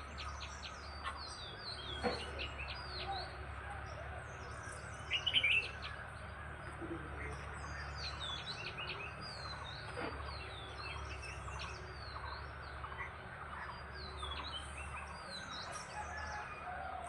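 Many small birds chirping and twittering at dawn, short high calls overlapping throughout, with a louder burst of calls about five seconds in. A steady low hum runs underneath.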